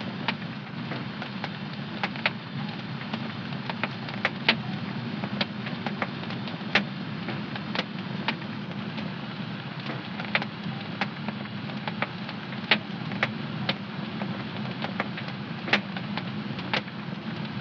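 Fire in a home fireplace crackling: a steady low rush of flame with irregular sharp pops and snaps, about two a second, a few of them louder.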